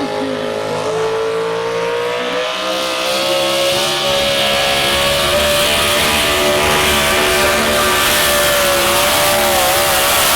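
Modified 4x4 pulling truck's engine running at high revs under load, its pitch climbing over the first few seconds and then holding high, wavering briefly near the end.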